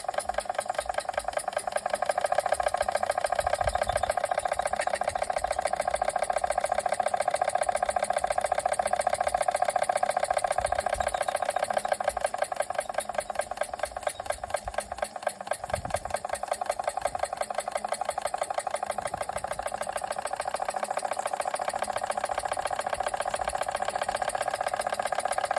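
Machinator Steamfire model steam engine, an oscillating-cylinder engine with a heavy flywheel, running steadily with a fast, even beat. It dips slightly in loudness about halfway through, then comes back.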